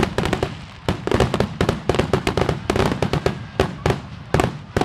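Fireworks going off in a rapid barrage of sharp bangs and crackles, several a second and often overlapping.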